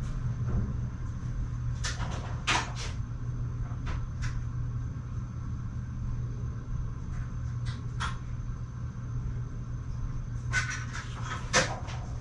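Scattered knocks and clatters, as things are picked up and moved while searching, with a cluster of them near the end, over a steady low hum.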